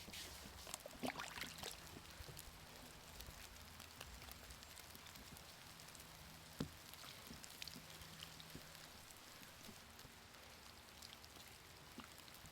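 Light rain falling: a faint, steady patter with scattered drops ticking on nearby surfaces.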